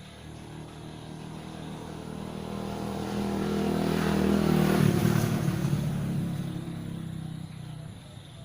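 Motor vehicle driving past: its engine grows louder, peaks about five seconds in as the pitch drops, then fades away.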